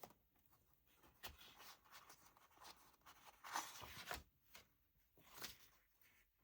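Faint rustling and sliding of paper pages being handled, with a few soft taps.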